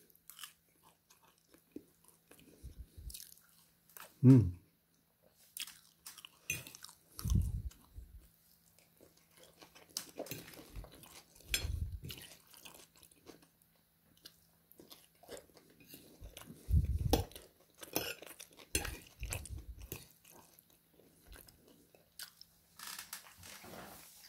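Close-miked eating sounds: irregular chewing and biting on oven chips and spaghetti, with soft crunches and small clicks between pauses. One brief low hum from the eater about four seconds in.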